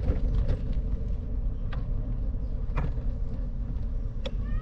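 Steady low rumble of wind on the microphone and tyres rolling on pavement while riding a bicycle, with a few sharp clicks from the bike.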